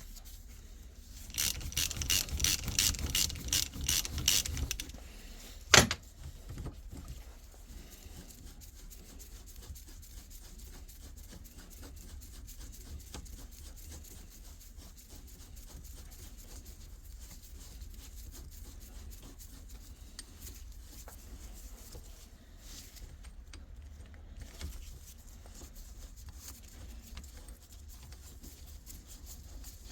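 Metal gearbox parts and tools being handled during teardown of a Toyota MMT robotised gearbox. A rapid metallic clicking rattle lasts about three seconds, then one sharp click, then faint scraping and handling for the rest.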